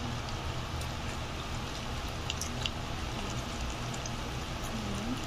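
Chicken fingers frying in hot oil: a steady sizzle with scattered small crackles and pops.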